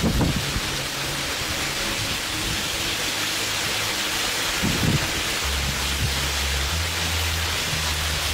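Heavy rain pouring down: a steady, dense hiss of rainfall and running water, with a couple of brief low thumps, one near the start and one about five seconds in. Low steady tones sit underneath, growing stronger in the second half.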